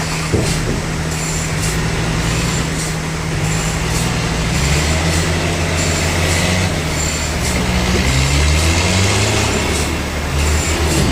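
Sawmill machinery running: a steady engine drone under a noisy whir, with the low tones shifting in pitch partway through as the load changes, and a faint regular pulsing higher up.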